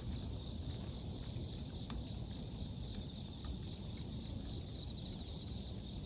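Japanese bell crickets (suzumushi) singing in pulsed trills with a crackling wood bonfire. The fire gives scattered sharp pops, a louder one about two seconds in, over a low rumble.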